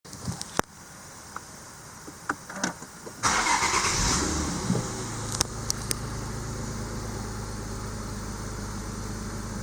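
A few clicks, then the starter cranks briefly about three seconds in and the Nissan Fuga 350GT's 3.5-litre VQ35HR V6 catches and settles into a steady idle.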